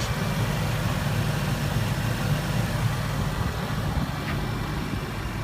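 A vehicle engine idling steadily: a constant low hum with a hiss above it.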